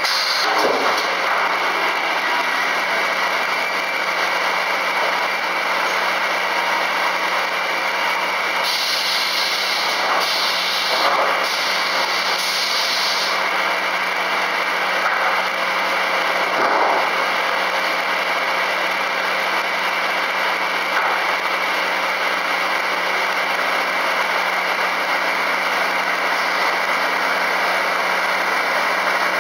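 Double-arbor circular sawmill running steadily with its motors and blades at speed, a constant machine hum with a brief hissing stretch partway through.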